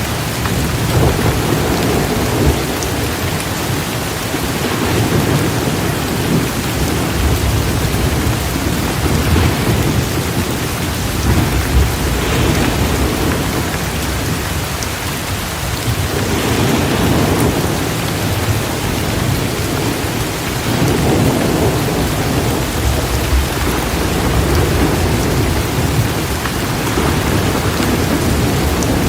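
Torrential rain pouring steadily in a thunderstorm, with low rolling thunder rumbling up and fading away again and again underneath.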